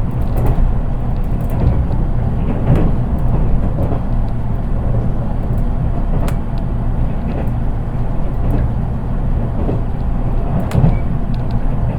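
Interior running sound of a JR East 183 series DC electric train, heard from the KuHa 183 driving trailer car: a steady low rumble of wheels on rail with scattered clicks and knocks. There is little motor sound, since the recording car is an unpowered driving trailer.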